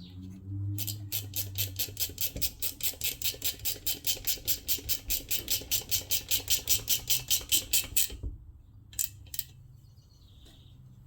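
Ratchet wrench clicking in an even run of about five or six clicks a second for some seven seconds, then two single clicks near the end.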